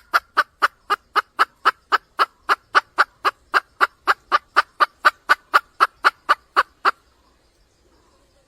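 Junglefowl hen calling a rapid, even series of short sharp notes, about four a second, stopping about seven seconds in: the call a hen gives to draw a rooster.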